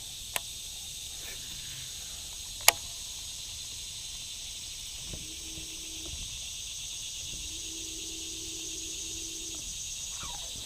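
Steady high-pitched chorus of insects, with two sharp clicks in the first three seconds and a faint low hum twice in the second half.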